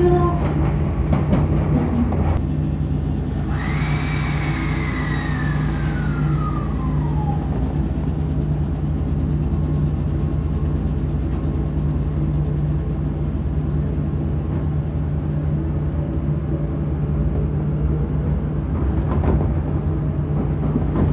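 Running noise of a Kotoden ex-Nagoya-subway electric train, heard from inside the car: a steady low hum, with a whine that slides down in pitch between about four and seven seconds in.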